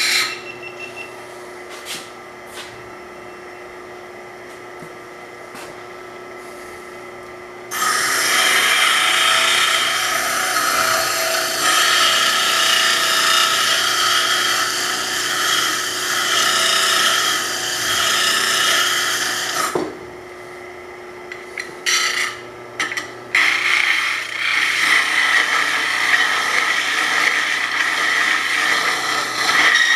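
Metal file rasping back and forth on the pump motor's steel shaft, cleaning off the pitted surface. It comes in two long spells of steady filing, from about 8 s to 20 s and again from about 24 s, with a few short strokes in between. A steady electric hum sits underneath.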